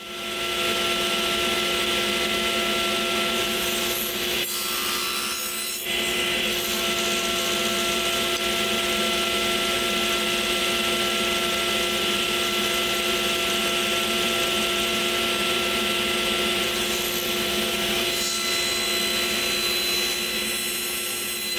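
Woodworking power tool running steadily with a motor hum while working a piece of wood. The grinding rasp of the cut changes briefly a few seconds in.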